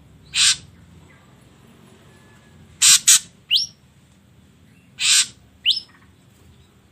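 Ashy drongo calling: short harsh, rasping notes, once alone, then a pair, then one more. The pair and the last note are each followed by a quick rising whistle.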